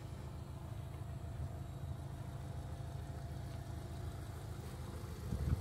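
Steady low rumble of an idling car engine, with a faint steady hum above it.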